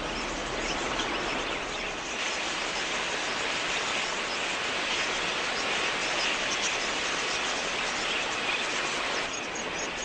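Steady din of a large budgerigar flock, many high chirping calls overlapping into one dense chatter. It drops a little quieter about nine seconds in.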